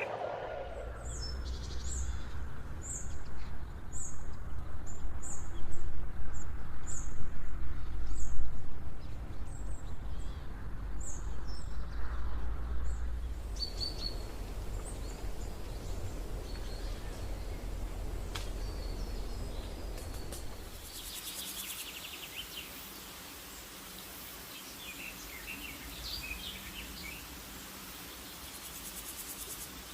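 Wild birds calling: a short high chirp repeated about once a second over a low rumble. About two-thirds of the way through, the rumble gives way to a high, insect-like buzz with scattered chirps.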